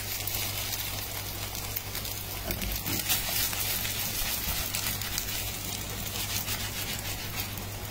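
Oil sizzling in a frying pan under a Maggi noodle omelette as it crisps: a steady hiss dotted with many small crackles, over a low steady hum.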